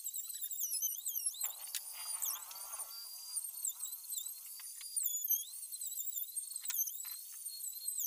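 Birds singing, with high, rising and falling chirps and warbles throughout and a lower warbling call about a second and a half in. A few light clicks and knocks are heard underneath.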